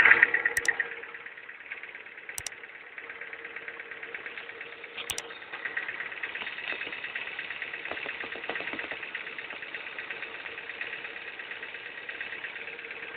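Ford car engine idling with a rapid ticking noise running through it, the strange engine noise being shown.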